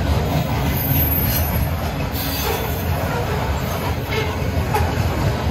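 Freight train of covered grain hopper cars rolling past, a steady low rumble of steel wheels on the rails.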